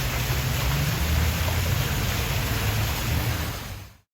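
Running water from an indoor waterfall or pond feature, a steady rushing splash with a low rumble underneath; it cuts off suddenly near the end.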